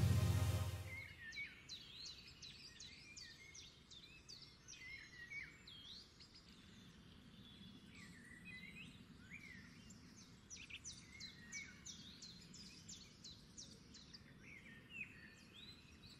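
Faint birdsong: many short chirps and whistles from several birds, some sweeping down in pitch. A deep boom dies away in the first second.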